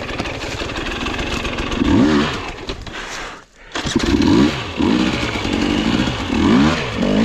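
Dirt bike engine revving in repeated blips as it is ridden on a rough trail, its pitch rising and falling five or six times. The sound drops away almost completely for a moment about three and a half seconds in, then the revving picks up again.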